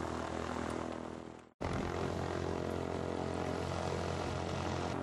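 Propeller aircraft piston engine running steadily. The sound fades and cuts out for an instant about a second and a half in, then carries on.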